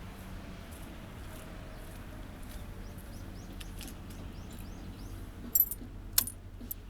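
Low steady background noise with a run of short, falling bird chirps in the middle, then two sharp clicks about half a second apart near the end.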